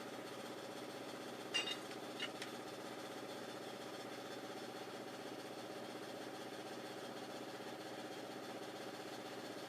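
Steady mechanical hum of a running machine, with two short light metal clinks, about one and a half and two and a quarter seconds in.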